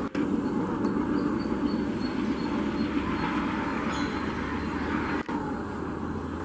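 Steady rumble and rattle of a passenger train's coaches running on the track as the train pulls away.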